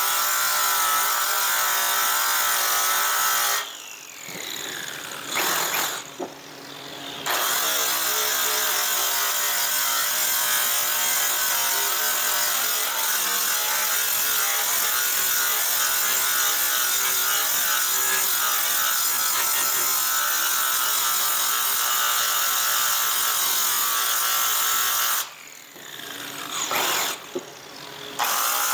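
Handheld electric sander running steadily against a metal aircraft exhaust pipe. Twice it lets off, the motor's pitch falling as it spins down, then it comes back up to speed.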